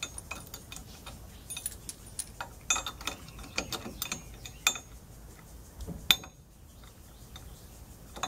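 Hand tools working bolts loose on an airboat belt box: irregular metallic clicks and clinks, the loudest a single sharp clank about six seconds in.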